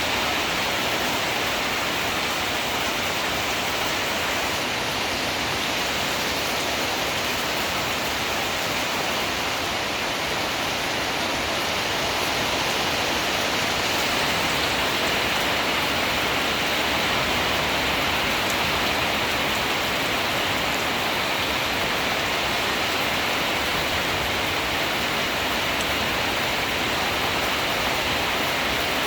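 Rainstorm: heavy rain pouring down steadily, an even hiss with no breaks, thunder or single drops standing out.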